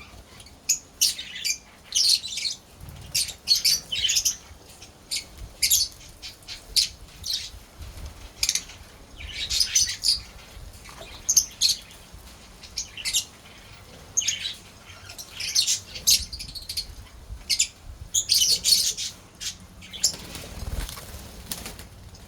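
Lovebirds chirping: many short, sharp, high-pitched calls and squawks in quick irregular clusters.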